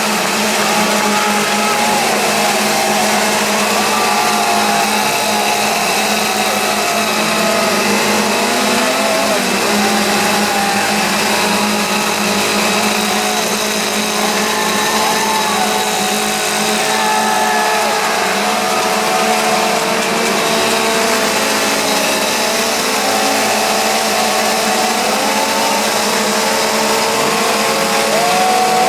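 A steady engine-like drone, loud throughout, over a constant hum, with pitches that keep wavering up and down.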